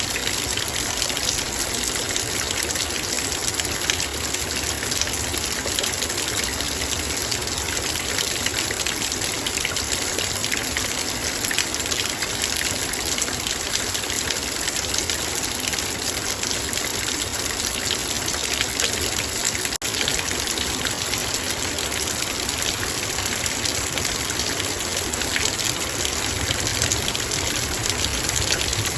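Heavy rain falling on and around a metal bowl: a dense, steady patter of countless drops, broken only by a split-second dropout about two-thirds of the way through.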